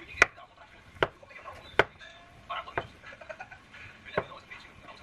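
A knife chopping on a cutting board: about five slow, unevenly spaced chops.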